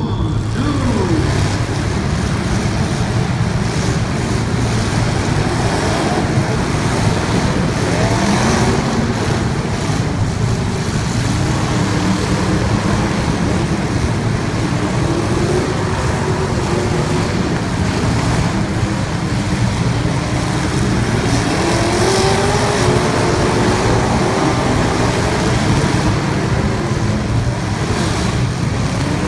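Race car engines running loudly, their pitch rising and falling several times as the cars rev and accelerate.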